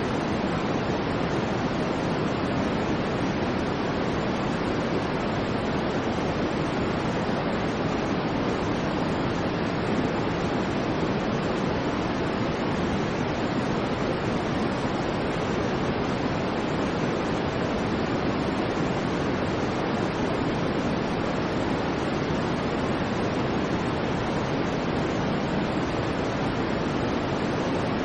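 Steady white noise, even and unchanging, with most of its weight in the lower middle of the range rather than in the hiss.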